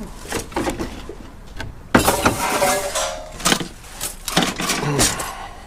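Scrap and junk being handled: metal clanking and clattering, with a few sharp knocks and then a loud clatter about two seconds in.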